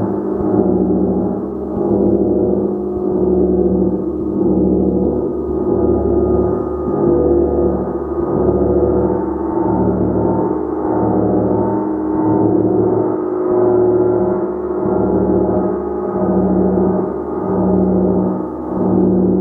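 Gong being played continuously: a dense wash of overlapping ringing tones that swells and eases about every one and a half to two seconds.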